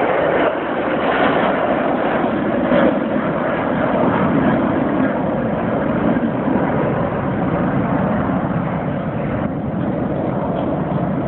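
Airliner's jet engines at takeoff thrust: a loud, steady rush of engine noise during the takeoff run, thinning slightly in its upper range near the end.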